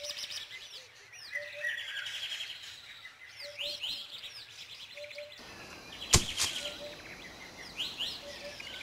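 Several songbirds singing: rapid high trills and short down-slurred whistles, over a low two-note call that recurs every second or so. A single sharp click about six seconds in.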